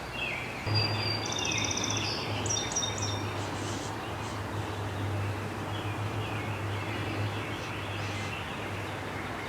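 Songbirds singing and calling in the background: a fast, high trill and a few clear whistled notes and chirps in the first few seconds, fainter calls later, over a steady low hum.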